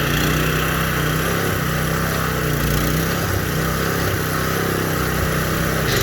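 Small single-cylinder Predator 212 engine (a Honda-clone four-stroke) running steadily on a homemade tractor.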